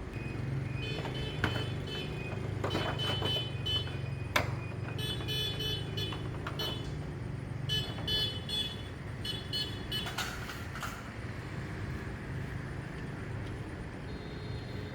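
Small electric motor of a toy RC car running with a steady hum, broken by several bursts of high-pitched whine and a couple of sharp clicks.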